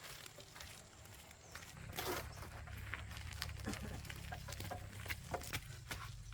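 Chickens clucking now and then amid scattered light knocks and rustles, over a low steady rumble that comes in about two seconds in.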